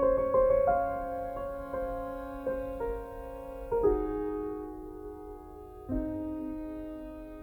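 Background music: soft solo piano playing slow, gently sustained notes and chords.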